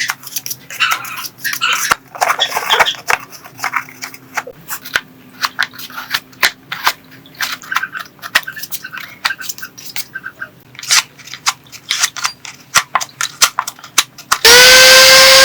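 Irregular clicks, taps and short scrapes of small parts and tools being handled. Near the end a loud, steady, high-pitched whine starts abruptly.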